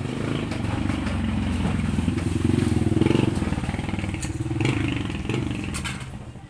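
An engine running, swelling to its loudest about three seconds in and fading near the end.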